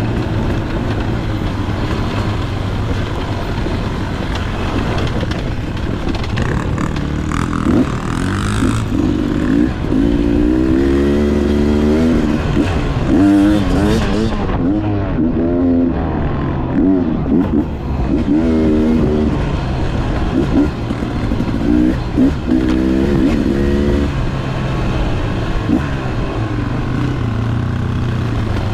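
Two-stroke dirt bike engines running, one revving up and down over and over, its pitch rising and falling in quick sweeps through the middle, over a steady low engine drone.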